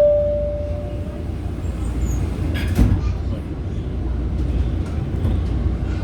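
Inside a PATH train car: the lower note of a two-tone door chime sounds and fades in the first second, then the car's steady low rumble as it runs, with a single clunk a little under three seconds in.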